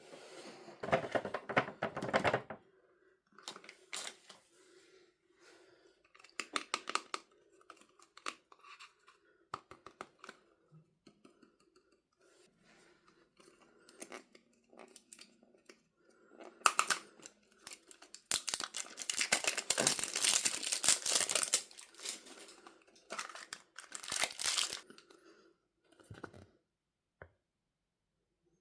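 Surprise-toy packaging being torn open and crinkled by hand, in irregular bursts of tearing and crackling with short pauses between, the longest and loudest stretch in the second half.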